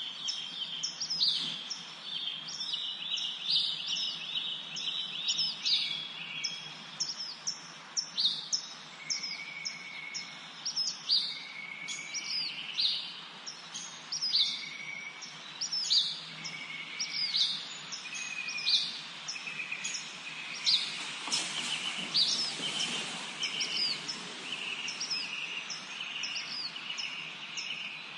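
Several songbirds singing and chirping together, with rapid high chirps that fall in pitch and, for a while, a short whistled note repeated about once a second. About two-thirds of the way through, a brief rush of noise rises and fades under the birdsong.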